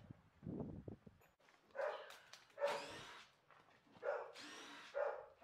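Labrador retriever barking: four short barks, roughly a second apart, starting about two seconds in.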